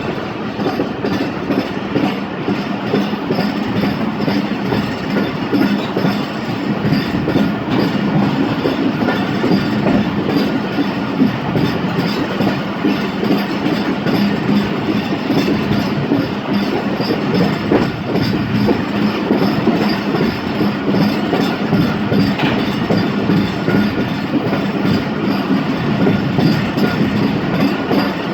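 A train running steadily on the track, its wheels clicking over the rail joints over a continuous rumble.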